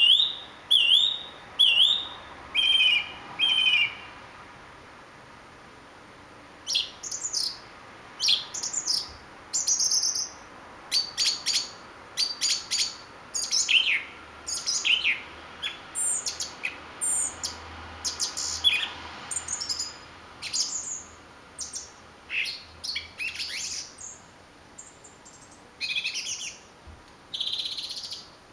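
Thrush singing at night: short whistled phrases, the first ones repeated two or three times, then after a pause of a couple of seconds a quick run of varied, sharp phrases.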